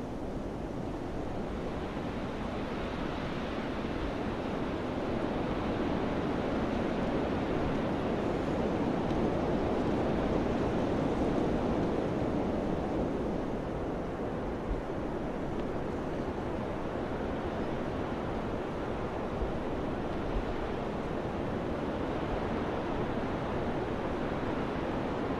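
Steady rushing wind, swelling in gusts to a peak about halfway through and then easing off.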